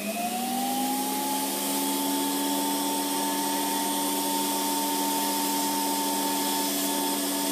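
Ortofex Micro Air nail drill machine with its built-in dust-extraction vacuum switched on: a whine that rises and settles to a steady speed within the first half second, then a constant hum and whine over an airflow hiss.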